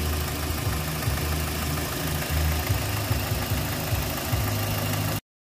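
2007 first-generation Toyota Vios four-cylinder engine idling steadily, heard close up in the open engine bay. The sound cuts off abruptly near the end.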